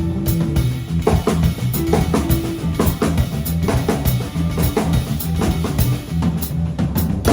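Small band playing together: a drum kit keeps time with kick and snare hits under a moving bass line, with a held higher note ringing over them now and then.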